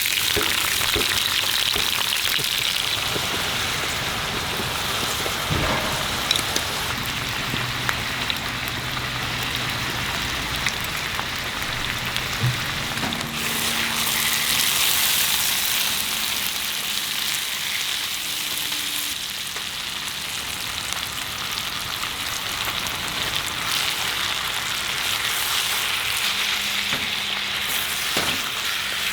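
Food frying in a skillet: a steady sizzle with scattered small pops and clicks.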